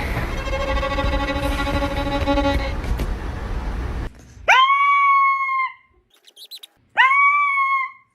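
A steady rumbling noise with a held tone that cuts off about four seconds in, then a pet animal giving two loud, long, high calls, each rising sharply and then holding steady.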